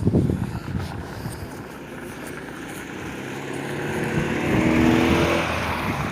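A motor vehicle's engine approaching and passing, growing louder to a peak about five seconds in, then dropping in pitch as it goes away. Wind buffets the microphone near the start.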